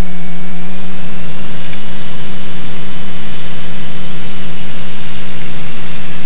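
Cessna 185's piston engine and propeller running steadily at low taxi power, heard inside the cockpit as a loud drone. A thin high whine rises slightly in pitch about a second in and then holds.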